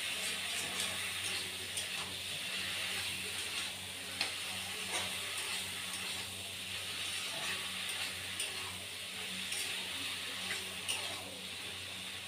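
Taro greens and masala sizzling in a black kadai while a metal spatula stirs them, with a steady frying hiss and scattered sharp taps and scrapes of the spatula against the pan.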